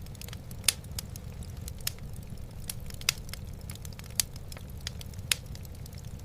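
Wood fire crackling in a fireplace: a steady low rumble with many small snaps and four louder pops.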